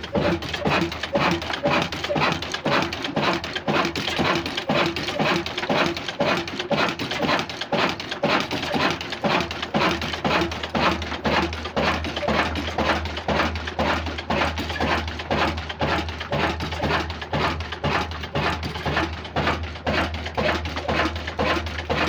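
A new diesel engine running with a regular, rapid chugging beat over a steady low hum.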